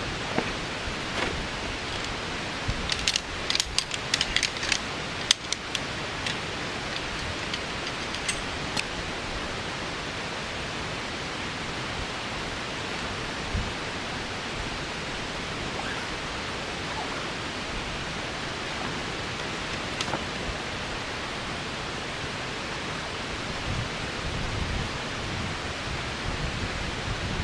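Steady heavy rain falling in a downpour, an even rushing hiss, with a flurry of sharp ticks a few seconds in.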